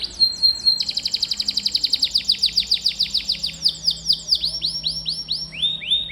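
Domestic canary singing a rolling trill of rapid, repeated downward-sweeping high notes, slowing to a few notes a second near the end.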